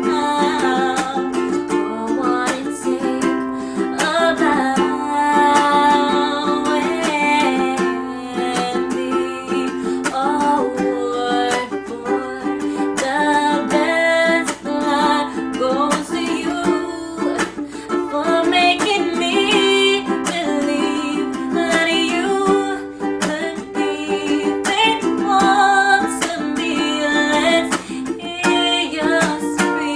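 Ukulele strummed in a steady, rhythmic pattern, playing a song.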